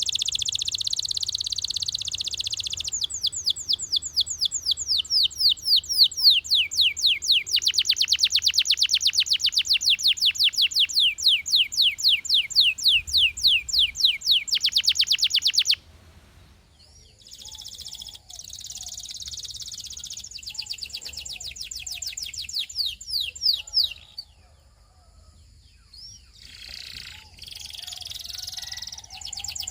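Canary singing: a buzzy trill, then long rolls of rapid, evenly repeated falling notes, each run changing speed and pitch. The song breaks off suddenly about halfway through, goes on more quietly with a brief pause, then picks up again near the end.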